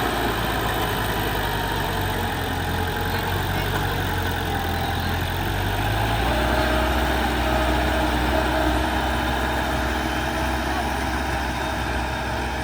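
Heavy diesel engine of earthmoving equipment running steadily, its low note shifting about six seconds in.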